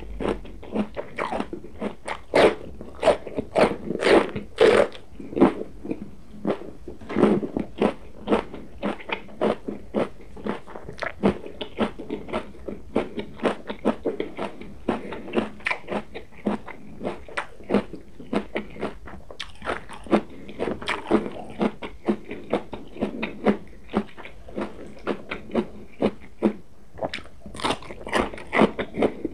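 Close-miked crunching and chewing of raw vegetables, beginning with a bite of raw green pepper: crisp crunches come several times a second throughout, with louder bursts as fresh bites are taken.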